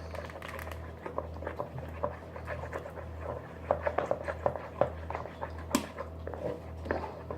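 Freshly made slime being squeezed and kneaded by hand, giving irregular wet clicks and squelches.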